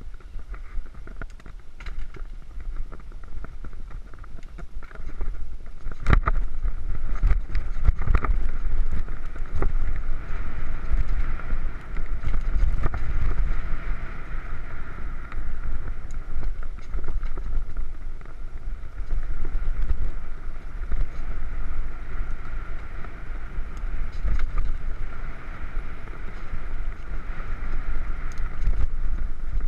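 Mountain bike ridden along a dirt trail: steady rumble and rattle from the tyres and frame over the ground, with sharp knocks from bumps, the strongest about six and eight seconds in.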